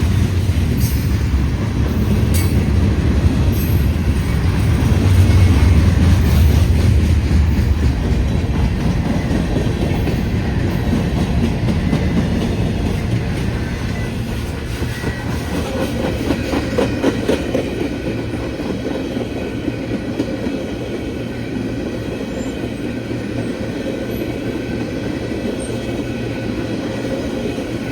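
Long freight train rolling past close by: a heavy low rumble over the first eight seconds that eases off, then the steady rolling of the cars with wheels clicking over the rail joints.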